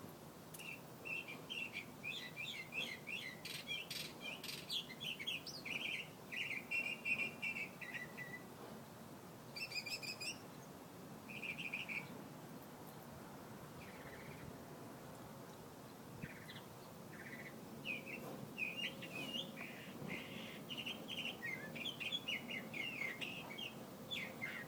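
A songbird singing a long, varied song of rapid high notes: one run of phrases, then a few short separate phrases and a pause, then another long run near the end.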